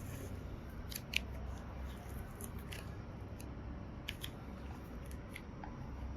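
Close-miked handling sounds from slime play: scattered small clicks and crackles at irregular intervals over a steady low hum.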